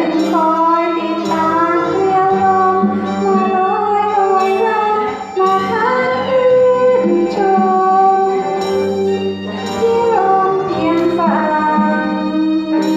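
A woman singing a Thai song with sustained, gliding notes over instrumental accompaniment.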